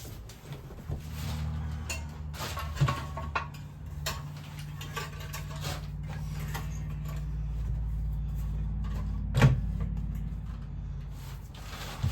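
A machine's motor humming steadily, with scattered clicks and knocks and one sharp knock about nine seconds in.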